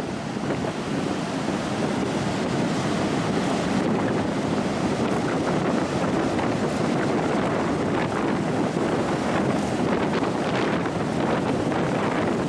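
Strong coastal wind blowing across the microphone, a loud, steady rush, with ocean surf breaking on the beach beneath it.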